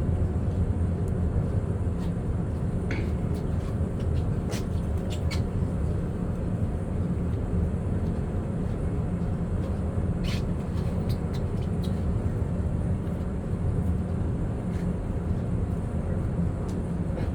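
Steady low mechanical rumble, with a few faint clicks scattered through it.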